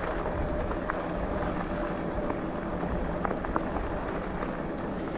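Bicycle rolling along a forest track: steady tyre and wind noise with scattered small clicks and rattles, and a faint steady whine.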